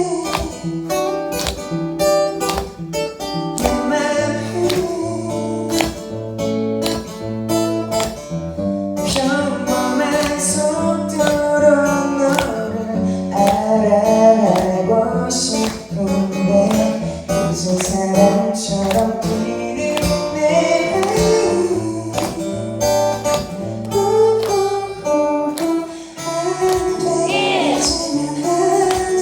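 Live band music: guitar playing over a bass line and a steady beat, in a passage without clear lyrics.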